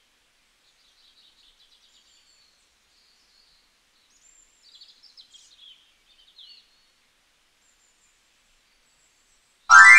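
Faint small-bird chirping and trilling, then near the end a loud rising tone lasting about a second.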